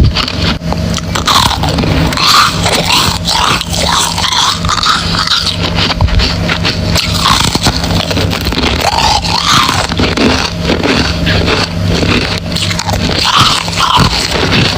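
Close-miked biting and chewing of freezer frost chunks: dense, irregular crunching and crackling with squeaky grinding of the ice, over a steady low hum.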